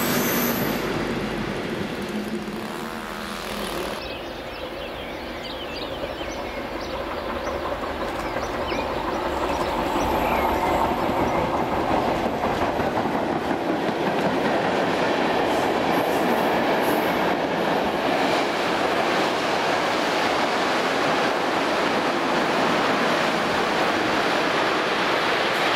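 Container freight trains rolling along the rails, the wagons' wheels clattering over the rail joints. The sound changes abruptly about four seconds in, then builds to a steady loud rumble as the wagons run close by.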